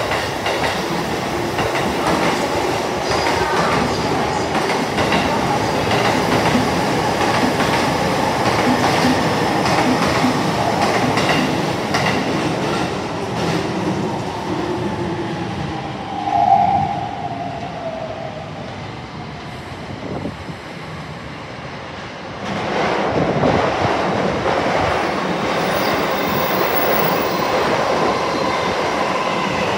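JR electric commuter trains passing close by: an E233-series Keihin-Tohoku train's wheels clattering over rail joints with a whine that slides in pitch, a brief loud tone about 16 seconds in, a quieter lull, then a second train, a Yokosuka-line set, rumbling past from about 22 seconds on.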